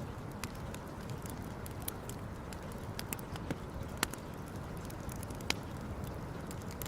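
Wood campfire crackling, with irregular sharp pops and snaps, a few louder ones, over a steady low rumble.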